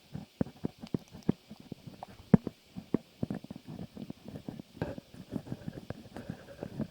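Close-miked ASMR trigger sounds: irregular soft clicks, crackles and squishes, getting denser toward the end.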